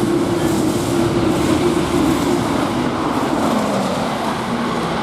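Eurostar high-speed train passing through the station at speed: a loud, steady rush of wheels and air, with a humming tone that falls in pitch about three seconds in as it goes by.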